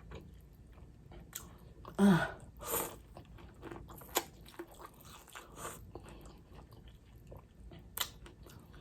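Close-up chewing and biting of a seafood boil, with small wet mouth clicks and crunches scattered throughout. A short hummed voice sound with a falling pitch comes about two seconds in.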